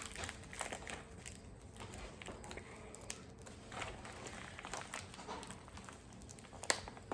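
Faint crinkling and rustling of a small package being handled and opened, with scattered light clicks and a sharper tick near the end.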